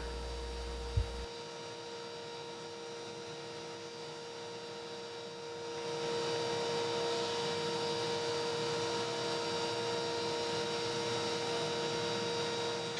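A stationary woodworking machine used for milling boards running with a steady hum, getting louder about halfway through. There is one short knock about a second in.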